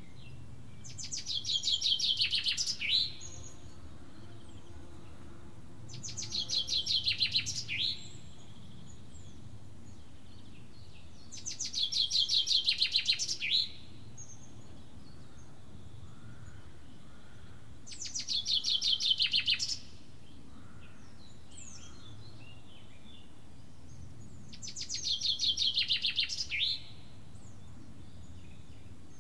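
A songbird singing the same short phrase five times, about once every six seconds: each is a fast run of high notes lasting about two seconds, growing louder and ending in a quick downward flourish. A steady low background hum runs underneath.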